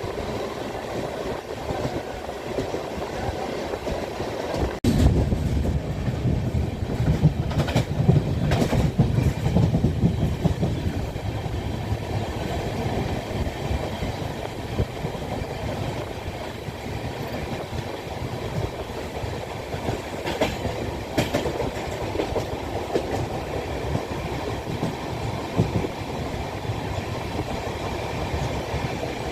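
Train running on rails, its wheels clicking over the rail joints. The rumble grows louder and deeper about five seconds in, then settles back to a steady run.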